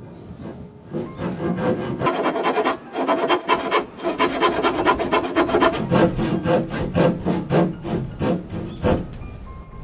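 A hand tool worked back and forth on wood in quick repeated strokes, about two to three a second, starting about a second in and stopping shortly before the end.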